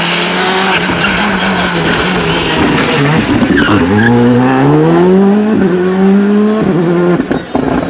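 Rally car engine at full race pace: the revs drop sharply as it brakes about three and a half seconds in, then rise hard through a gear change as it accelerates away, and fall again as it lifts off near the end.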